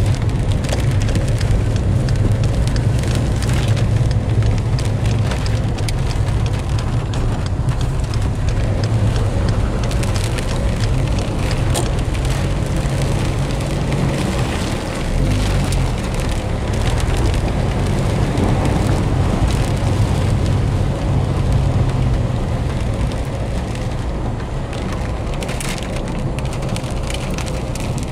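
Heavy rain drumming on a car's roof and windscreen, heard from inside the cabin as a dense crackling patter, over the steady low hum of the car driving on a wet road.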